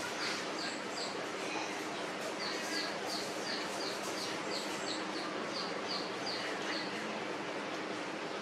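A bird calling in a steady series of short, high, falling chirps, about three a second, with a brief pause about two seconds in, over steady outdoor background noise.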